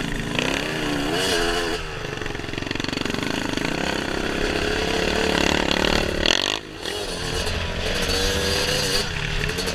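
Dirt bike engine on the trail, its pitch rising and falling as the throttle is worked, with a brief drop in level about two-thirds of the way through.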